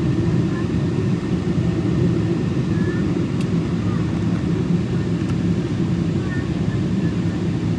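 Steady, unbroken cabin roar inside a Boeing 777-224 airliner in flight, the deep rush of engine and airflow noise heard from a window seat.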